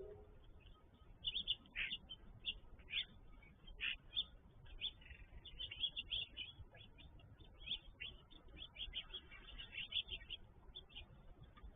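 Birds chirping and calling: many short calls throughout, with bursts of denser chatter in the middle and again near the end.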